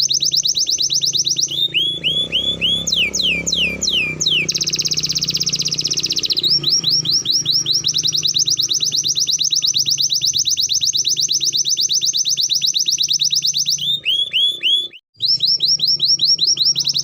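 Domestic canary singing: long, very fast trills of rapidly repeated notes, broken by runs of slower falling notes, with a brief pause about two seconds before the end.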